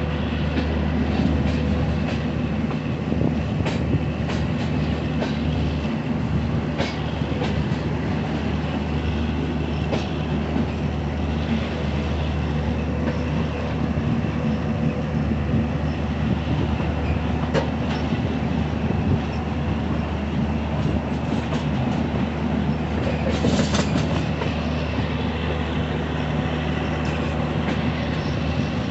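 Train running on the track, heard from inside a moving coach through an open door or window: a steady low rumble and hum, with wheels clicking over rail joints every few seconds and a short burst of louder, higher noise about three-quarters of the way through.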